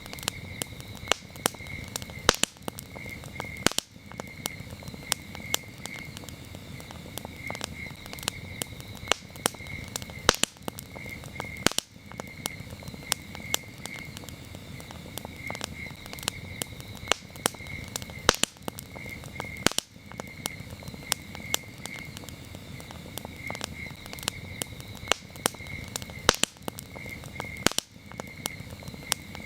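Wood campfire crackling, with frequent sharp snaps and pops over the low, steady rustle of the flames. Crickets chirp throughout in short, evenly repeated pulsed trills.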